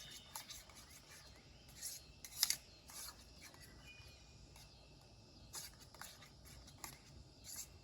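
A spoon scraping and stirring stew in a metal camp pot, a series of short, uneven scrapes and clicks.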